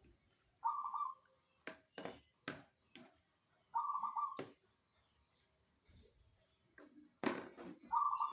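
Zebra dove (perkutut) cooing in short bubbling phrases, three of them a few seconds apart. Several sharp knocks or clicks fall between the phrases, the loudest about seven seconds in.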